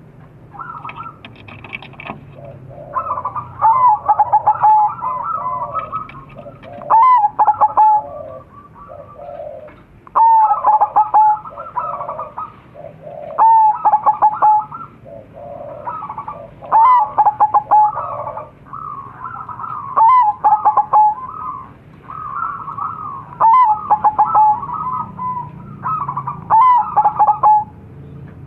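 Crossbred zebra doves (perkutut) cooing and answering one another: a loud, repeated coo phrase about every three seconds, with softer cooing from other birds in between.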